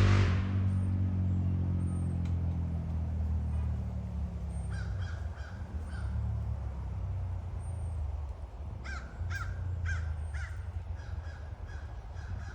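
Low engine hum of passing machinery fading away over the first few seconds, then short, harsh bird calls in quick series, a few about five seconds in and many more from about nine seconds on.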